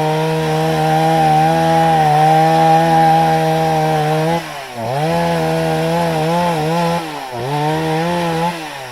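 A two-stroke chainsaw running at full throttle. The revs drop sharply twice and pick up again, then fall back toward idle near the end.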